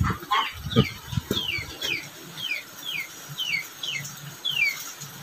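A bird peeping: a high note sliding downward, repeated about twice a second and stopping near the end. A few low thumps come in the first second and a half.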